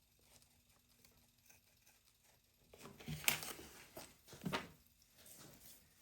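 Light handling of a balsa-wood piece and tools on a workbench: faint scratchy ticking, then a sharp tap about three seconds in and a duller knock about a second later.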